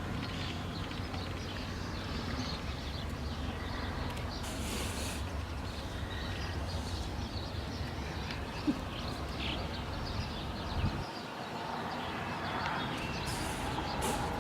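Swallows twittering in many short, scattered chirps over a steady low rumble, which drops away about eleven seconds in.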